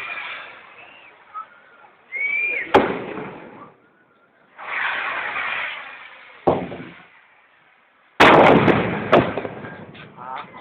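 Fireworks going off: about four sharp bangs, the loudest a little after eight seconds in, with a noisy rushing sound between them.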